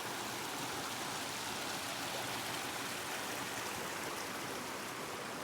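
Steady rushing of a mountain stream running high after rain.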